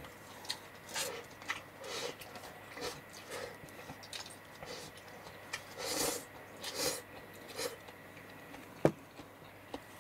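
Chewing a mouthful of chicken and rice: soft, moist mouth sounds in short bursts about twice a second, with one sharp tap about nine seconds in.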